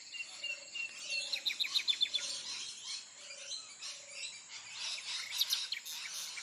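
Birds chirping: a quick run of about eight high chirps about a second in, over a faint, evenly repeated low call and a faint high hiss.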